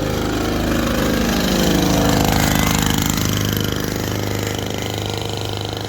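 Small mini bike engine running under throttle: it speeds up and grows louder to a peak about two seconds in, then eases back to a lower, steady note.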